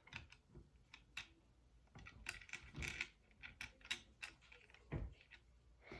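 Faint, scattered clicks and light rattles of plastic Lego pieces being handled, with a duller knock about five seconds in.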